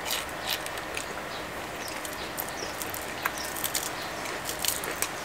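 People chewing crispy fried salmon with their mouths close to the microphone: scattered small crunches and wet clicks over a steady faint background hiss.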